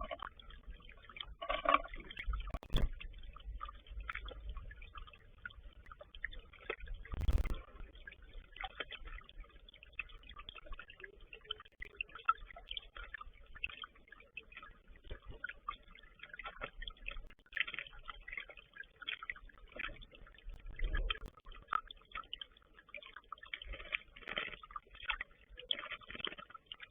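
A bird bathing in shallow water: irregular small splashes and taps, with two louder knocks about three and seven seconds in.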